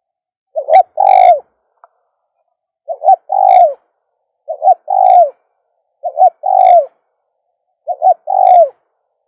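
Spotted dove cooing its song over and over: five phrases, each two short notes followed by a longer note that drops in pitch at the end, about every two seconds. It is a caged decoy male calling.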